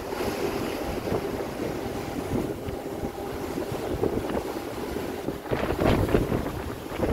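Strong wind buffeting the microphone with the rush of sea waves aboard a passenger ship under way, over a faint steady hum; the wind gusts harder about six seconds in.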